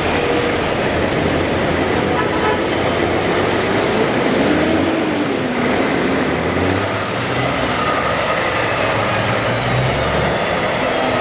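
Heavy trucks' diesel engines running as the trucks drive past in a steady stream, with an air horn blowing at times.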